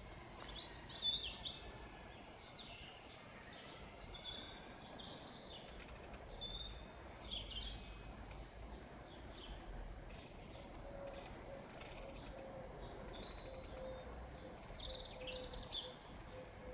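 Small birds chirping and singing in quick, high phrases, loudest about a second in and again near the end, over faint low background noise. A faint steady hum comes in about two-thirds of the way through.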